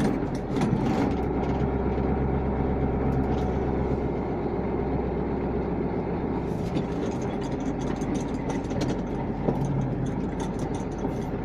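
Truck engine idling steadily, its low hum easing somewhat about six and a half seconds in, with a few scattered light clicks.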